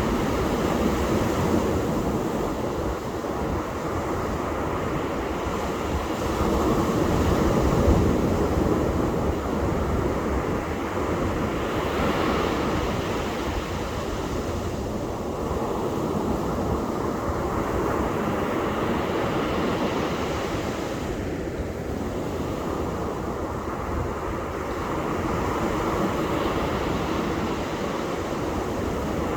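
Ocean surf: waves breaking and washing up on a beach in a continuous rush that swells and eases, loudest about eight seconds in.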